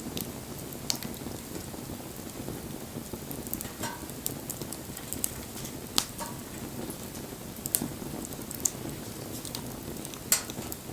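Wood fire burning, a steady low rush of flames with scattered sharp crackles and pops from the burning wood, the loudest pops about six seconds in and near the end.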